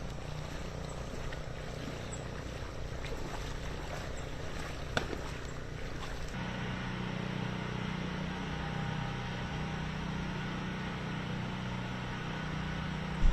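An engine running steadily under a hiss of noise, with a single sharp click about five seconds in; about six seconds in the sound changes abruptly to a steadier, deeper hum.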